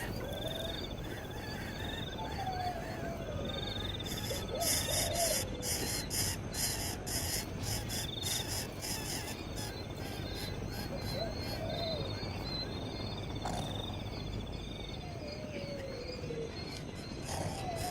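Wild birds and insects calling: short high trills repeat every few seconds, and several falling whistled calls sound over a pulsing insect buzz.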